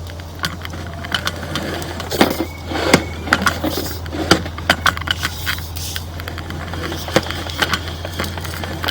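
Sewer inspection camera's push cable being handled and pulled back through the line, giving irregular clicks and clatters over a steady low hum.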